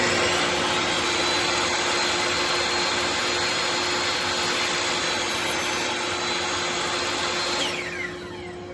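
Table saw running with its dust extraction, a steady loud whir with a constant hum. It is switched off about eight seconds in and begins to wind down.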